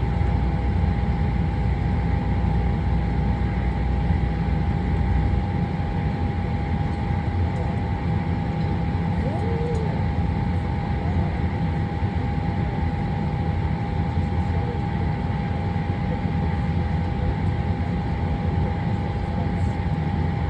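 Steady hum and rush of a Boeing 737-800's cabin air conditioning while the airliner waits at the gate, with a thin constant whine over it.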